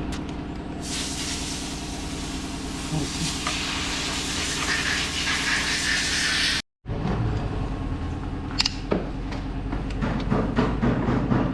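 A machine runs with a steady low hum, and a loud hiss of air is heard from about a second in until a sudden cut. After the cut the hum goes on, with a few sharp knocks near the end.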